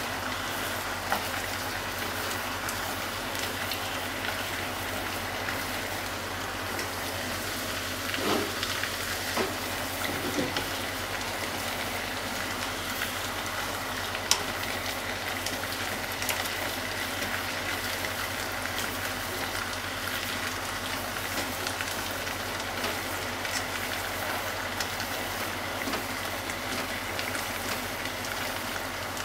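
Chicken pieces and diced onion frying with a steady sizzle in a pot, stirred with a wooden spatula that knocks and scrapes against the pot now and then, the sharpest knock about halfway through.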